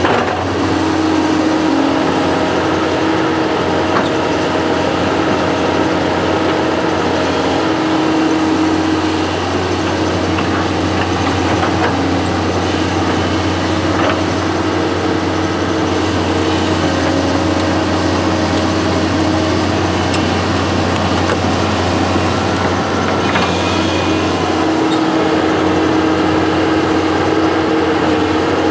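Construction machine's engine running steadily, its tone stepping slightly up and down in pitch as it works.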